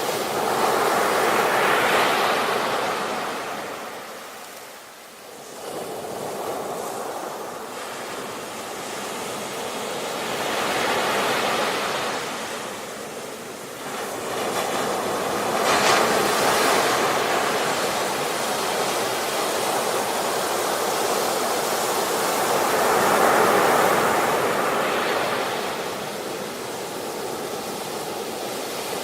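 Ocean surf: waves breaking and washing in, swelling and fading in about four surges, with a brief lull about five seconds in.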